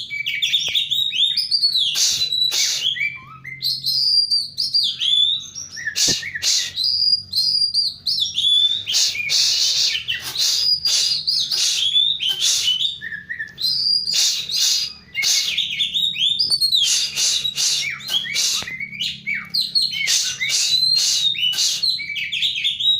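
Oriental magpie-robin in full, vigorous song: loud, varied phrases of clear whistles, slurred glides and sharp chattering notes, broken by short pauses.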